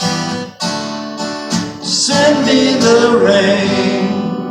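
Acoustic guitar strumming the song's closing chords, the last chord left to ring and fade out.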